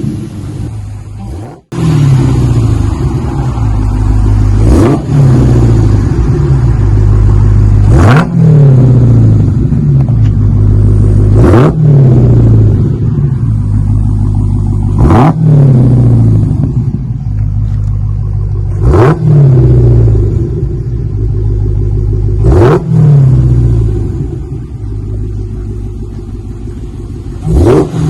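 Supercharged 6.2-litre HEMI V8 of a 2020 Dodge SRT Hellcat, rear mufflers deleted with the mid mufflers and factory cats kept. The engine is blipped about seven times, roughly every three to four seconds. Each rev falls back to a deep idle rumble.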